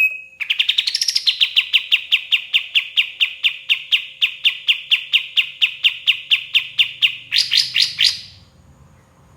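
Kapas tembak bulbul singing a long, fast run of downward-sliding notes, about four a second, the last few higher and quicker before it stops about eight seconds in.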